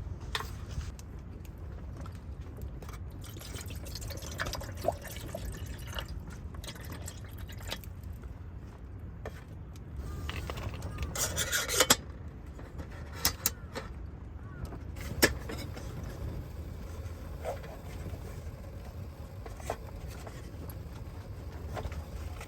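Wind rumbling steadily on the microphone, with scattered small clicks and knocks of camp gear being handled. About ten seconds in, a short rushing, hissing sound builds up and ends in a sharp knock.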